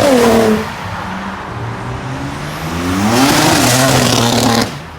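Car engines revving hard. A loud engine note drops in pitch in the first half second, then an engine revs up again from about two and a half seconds in with a loud rushing noise, and cuts off abruptly near the end.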